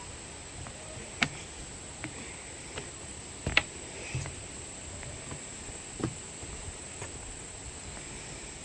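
Steady hiss of rushing stream water with a continuous high-pitched insect trill, broken by a few sharp knocks and clicks, the loudest about three and a half seconds in.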